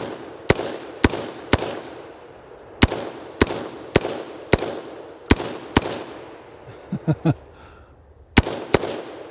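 BCM AR-15 in 5.56 firing about a dozen semi-automatic shots, roughly two a second, each with a short echo. There is a pause of about two seconds before the last two shots. The rifle is being run without cleaning or lubrication and is still cycling.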